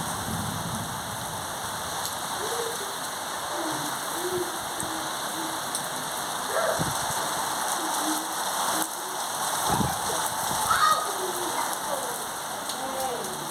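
Rain falling steadily, with faint short wavering calls or voices in the background.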